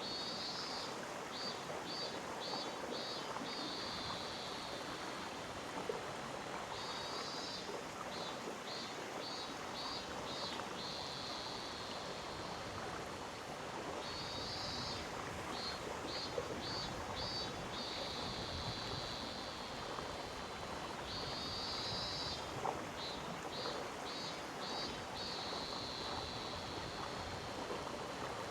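Gorge stream flowing steadily, an even rushing hiss. Over it, a high buzzy call repeats about every seven seconds: a rasp, four or five quick pulses, then a held buzz.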